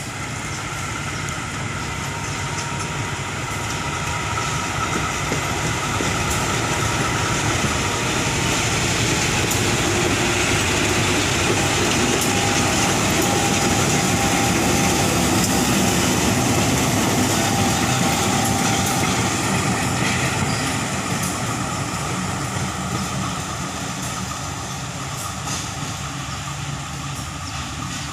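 Diesel locomotive hauling passenger carriages past at close range, the engine and wheels on the rails growing louder to a peak about halfway through, then fading as it moves away. A few steady whining tones ride over the rumble.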